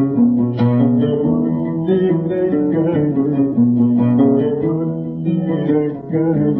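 Oud playing a plucked melodic passage of Arabic music between sung lines. The recording sounds narrow and old, with little treble.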